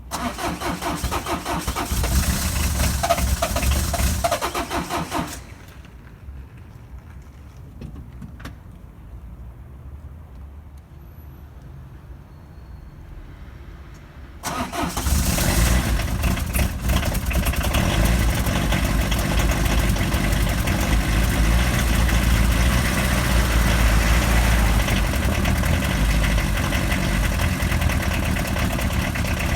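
1996 Citroën ZX TD's 1.9 XUD9 turbodiesel engine being cold-started at −6°C. The starter cranks for about five seconds and the engine doesn't catch. About fifteen seconds in it is cranked again, fires and keeps running steadily at idle.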